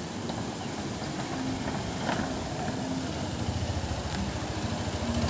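Motorcycle engine running, growing louder toward the end.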